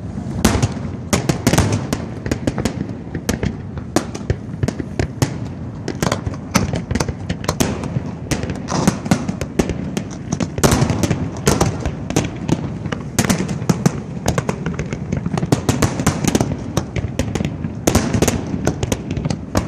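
Fireworks display going off: many sharp bangs and crackles in quick succession, overlapping with no break.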